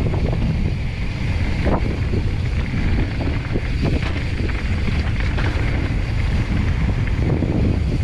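Wind buffeting the microphone of a mountain bike's ride camera at speed, over the rolling noise and chatter of the bike on a dirt trail, with a few short knocks from bumps or rocks.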